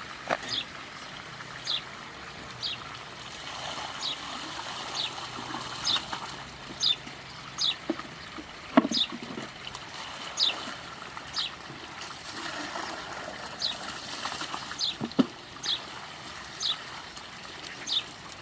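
A bird giving short, high, falling chirps about once a second over a steady trickle of water. Two sharp knocks come about nine and fifteen seconds in.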